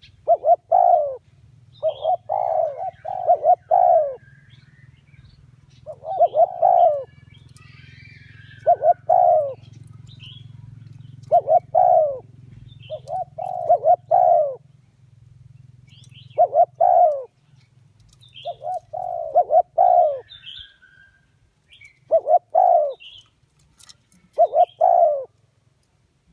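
Spotted dove cooing: short phrases of two to four low coos, repeated every two to three seconds.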